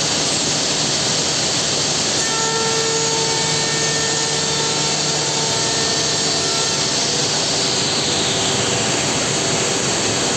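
Homag 5-axis CNC woodworking machining centre running and cutting with its tools: a loud, steady noise, with steady tones coming in about two seconds in and fading out, and a whine falling in pitch near the end.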